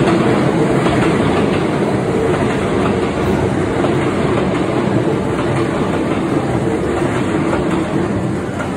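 Sanyo Electric Railway 5000-series electric train running past close by: a steady, loud noise of steel wheels on the rails, with scattered clicks over the rail joints, easing off near the end.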